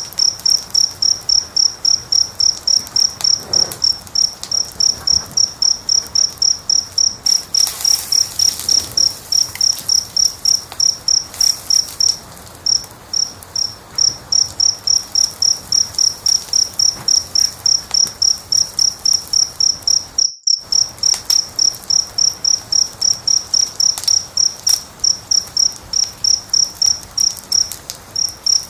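A cricket chirping steadily at about three high chirps a second, with a short pause about halfway through. Faint crackles from a fire sound now and then. The sound cuts out for an instant about two-thirds of the way through.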